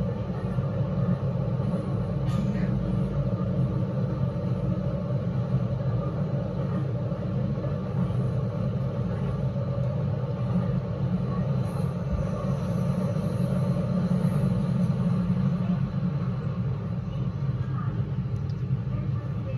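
Keio Line electric train running through a subway tunnel, heard from inside the car: a steady low rumble of wheels on rail and traction motors. Partway through, an oncoming train passes on the adjacent track.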